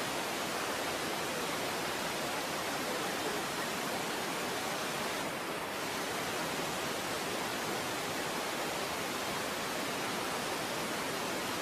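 A steady, even rushing noise with no distinct events or tones.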